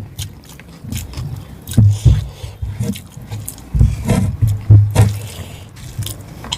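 Close-miked eating sounds: a person chewing rice and mutton curry, with wet mouth clicks and low thumps at uneven intervals.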